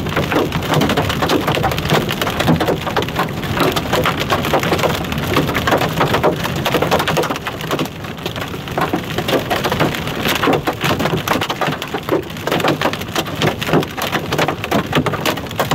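Wind-driven hail and rain pelting down hard in a dense, continuous clatter of impacts.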